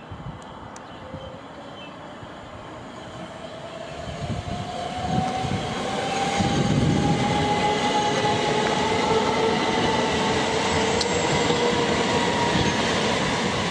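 Electric multiple-unit train running on the line, its traction motors giving a whine that slowly rises in pitch over a wheel rumble. The sound grows louder from about four seconds in and then holds steady.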